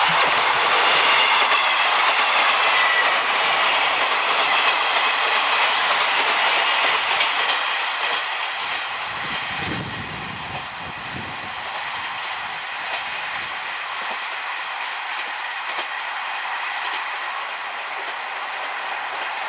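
A train running past on the track, its wheels clattering over the rail joints. It is loudest for the first several seconds, with a high wavering whine on top, then eases a little and carries on steadily.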